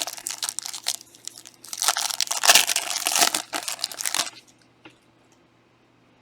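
Foil wrapper of a trading-card pack being torn open and crinkled: short crackles for about a second, then a louder stretch of tearing and crinkling that stops a little after four seconds in.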